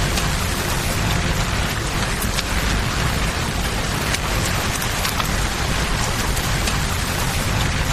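Steady rain falling over the low, continuous rush of a river, with a campfire's sharp crackles popping now and then.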